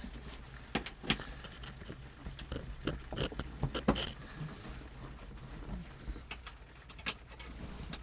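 Irregular metallic clicks and knocks of hand tools working loose the bolts holding a tractor seat, over a faint steady low hum.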